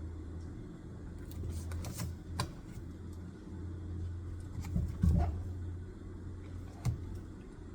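Scattered desk-handling noises: a few light clicks and knocks of objects being set down or moved on a study desk, the loudest about five seconds in, over a steady low hum.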